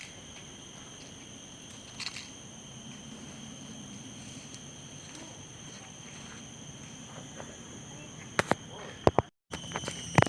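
Steady high-pitched chorus of insects, several even tones held throughout, with a few sharp clicks near the end.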